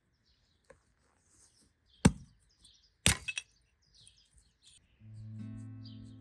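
Birds chirping faintly, broken by two sharp cracks about a second apart, the second followed by a few quick smaller knocks. Music comes in near the end.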